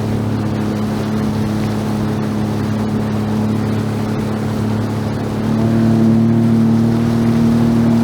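A small boat's motor running steadily underway. About five and a half seconds in it speeds up, rising in pitch and getting louder.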